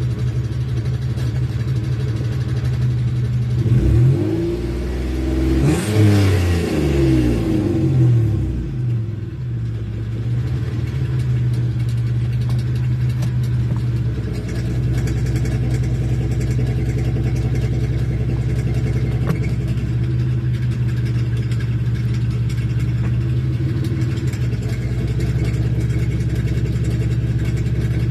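Car engine idling steadily, revved up and back down about four seconds in, then settling back to idle.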